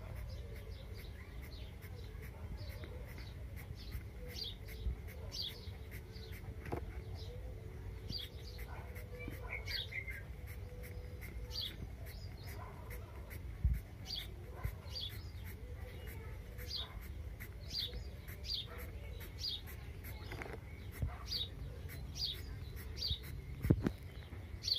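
A small bird chirping over and over, short high falling chirps about one or two a second, over a low steady background rumble.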